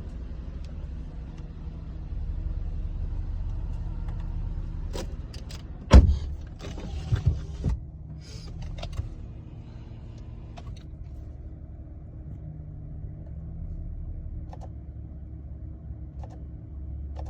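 Saab 9-5 NG engine idling steadily. About six seconds in there is one loud sharp thump, followed shortly by a few lighter knocks.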